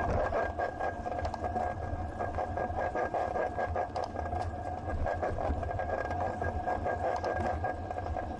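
Riding noise picked up by a bicycle-mounted action camera: a low rumble with frequent small rattles and clicks, over a steady hum.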